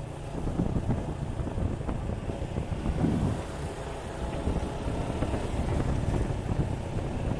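Heavy wind buffeting the helmet-mounted camera's microphone on a motorcycle under way, over the running of a Suzuki Gixxer 155's single-cylinder engine.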